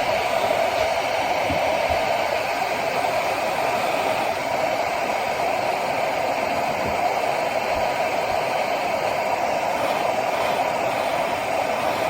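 Handheld hair dryer running steadily on one setting, a loud, even blowing whir.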